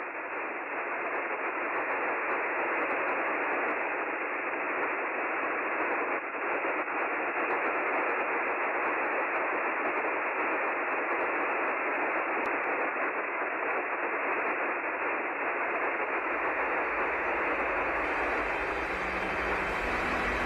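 Steady radio static: an even hiss with a narrow, tinny range. In the last few seconds low bass and music begin to come in underneath it.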